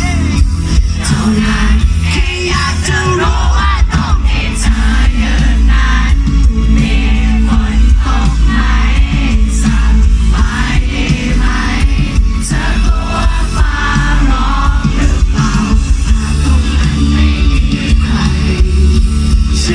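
Live rock band playing loud, with drums, bass, synth and a male lead voice singing, the low end heavy and dense.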